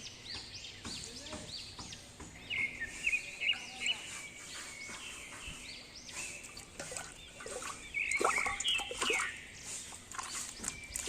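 Birds chirping over and over in short calls, with scattered sharp clicks and knocks, most of them a little past the middle.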